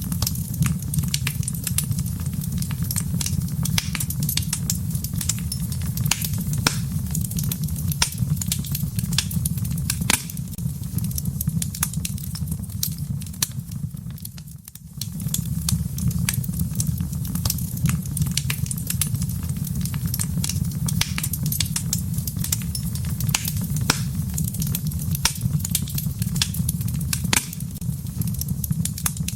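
Fire burning in a fireplace: a steady low rumble of flame with many sharp, irregular crackles and pops. The sound dips briefly quieter about halfway through.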